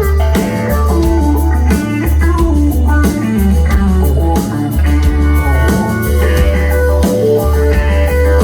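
Live rock band playing an instrumental passage: guitar melody over a heavy pulsing bass and drums.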